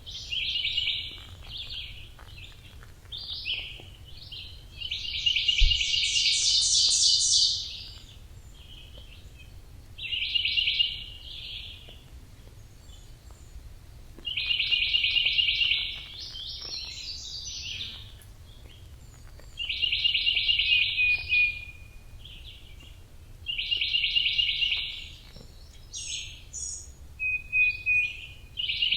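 A songbird singing repeated phrases of rapid, high chattering notes, each phrase one to three seconds long and coming every few seconds, over a steady low rumble.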